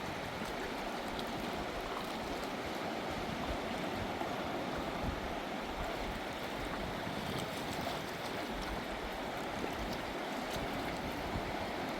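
A fast-flowing river rushing steadily: an even, unbroken wash of water noise.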